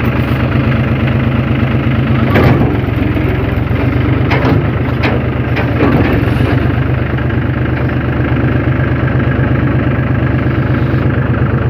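Tractor engine running steadily and loudly, with a few sharp clatters between about two and six seconds in.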